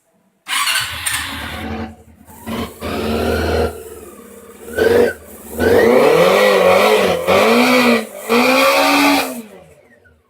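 Honda CB400 motorcycle engine revved through its exhaust, starting suddenly about half a second in and then a run of throttle blips whose pitch rises and falls, the last few in quick succession before it drops back and fades near the end.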